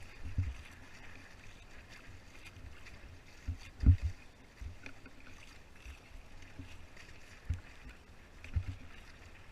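A Hobie Tandem Island kayak under way on the sea: a steady wash of water with a few separate low thumps, the loudest about four seconds in.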